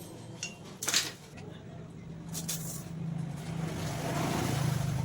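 A motor vehicle's engine noise swelling over a few seconds to a peak near the end, over a steady low hum, with a single sharp click about a second in.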